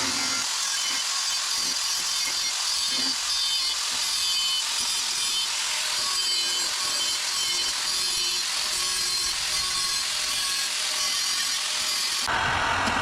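A power tool working bare metal, a steady harsh hiss that stops abruptly near the end.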